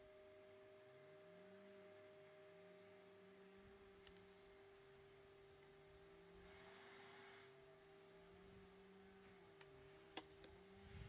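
Near silence with a faint steady hum of two held tones, a brief soft hiss in the middle and a single sharp click near the end.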